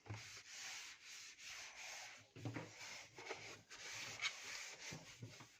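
A cloth wiping and polishing the outer casing of a washing machine: a faint rubbing that comes in uneven back-and-forth strokes.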